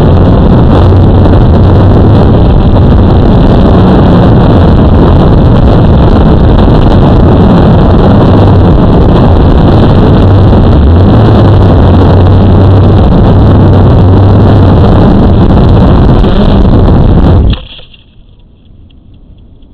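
Blade 350 QX quadcopter's brushless motors and propellers running with a steady hum, very loud and distorted on the recording. The sound stops abruptly near the end.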